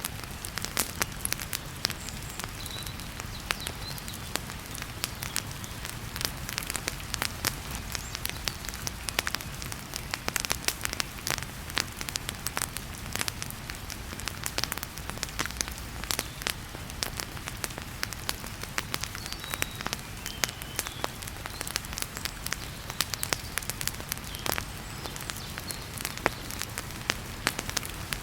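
Wood fire crackling in a fireplace, with frequent sharp pops and snaps, over a steady rush of heavy rain and a low rumble.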